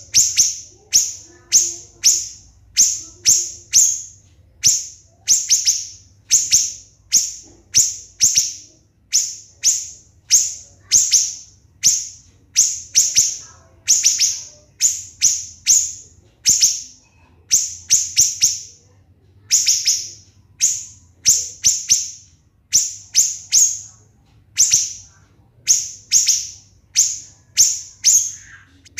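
Siri-siri bird singing its shrill, rapid 'shots': short bursts of a few quick, sharp high notes, repeated about once a second.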